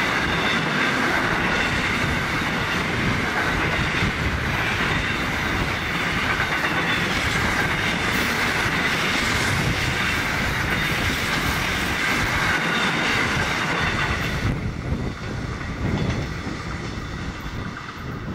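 Largely empty container flat wagons of a freight train rolling past, wheels clattering over the rail joints with a steady rumble and a high ring. About fourteen seconds in the high part of the noise drops away as the last wagons pass, and the sound fades.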